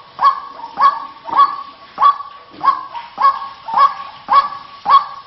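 White-breasted waterhen (ruak-ruak) calling, a harsh, honking call repeated evenly about every half second, nine times over. It is a playback lure call of the kind used to draw waterhens in.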